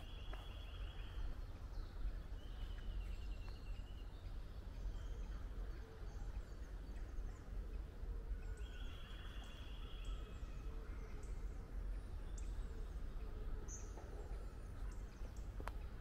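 Outdoor woodland sound: a small bird gives three rapid trills, each about a second and a half long, at the start, around three seconds in and around nine seconds in, with a few short high notes later. A steady low rumble runs underneath.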